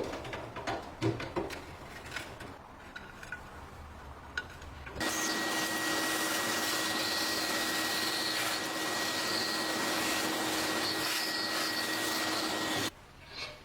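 Scattered light clicks and knocks of handling, then a motor-driven tool switches on about five seconds in. It runs at a steady whir with a constant hum for about eight seconds and cuts off abruptly.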